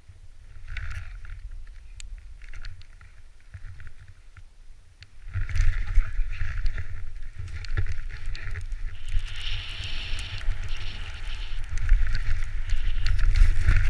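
Wind buffeting the microphone with a rumbling, hissing noise that gets louder about five seconds in.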